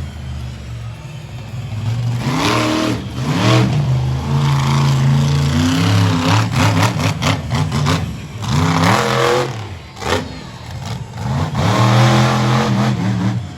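Monster truck engine revving hard over and over, its pitch sweeping up and falling back several times, with stretches held at high revs.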